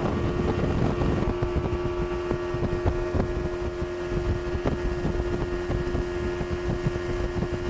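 Boat's outboard motor running at a steady speed, with wind buffeting the microphone.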